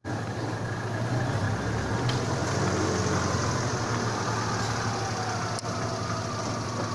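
A steady engine hum with a low drone, like a motor vehicle running.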